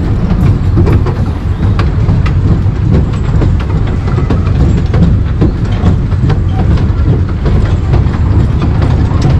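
Taipingshan Bong-Bong narrow-gauge forest railway train rolling along, heard from on board: a steady loud rumble with frequent irregular clicks and rattles from the wheels and cars.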